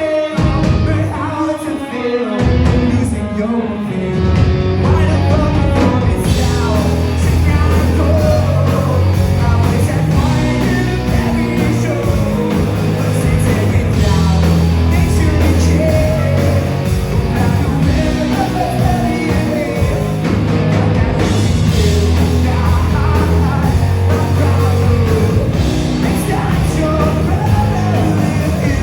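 Live rock band playing with a lead vocalist singing over guitars, bass and drums. The low end is thin for the first few seconds, then heavy bass and drums come in about four seconds in.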